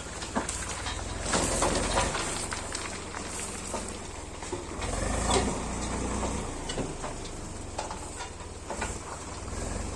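Swaraj 735FE and John Deere 5050 tractors' diesel engines running under heavy pulling load, a low pulsing rumble under a rough hiss that swells louder about a second in and again about five seconds in.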